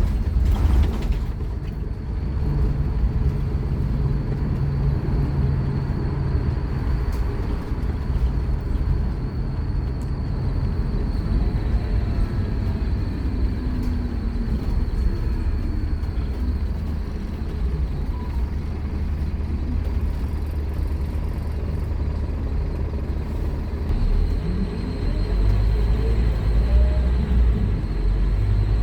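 Scania K230UB Omnilink single-deck bus's five-cylinder diesel engine running under way, with a steady low hum and a faint high whine, its note rising and getting louder near the end as it pulls harder.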